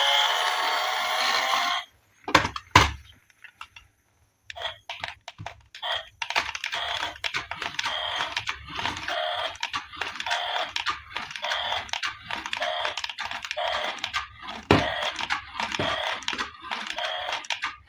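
A steady whirring sound cuts off about two seconds in, followed by two sharp clicks. After that comes a long run of quick small clicks and crinkles, like hands working plastic packaging and toy parts.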